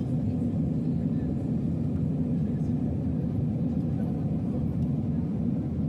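Airliner cabin noise: a steady low rumble of the jet engines and airflow.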